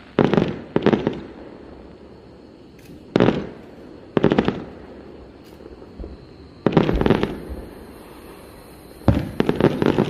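Aerial firework shells bursting in a string of booms, some in quick pairs, each breaking into a rapid crackle.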